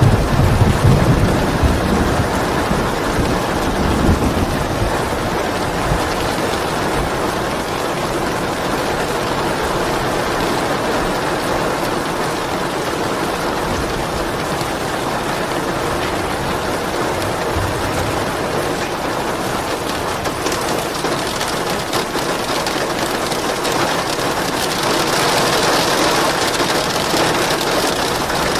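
Steady heavy rainfall, a dense even hiss. A low rumble sounds in the first few seconds, and the rain turns brighter and hissier near the end.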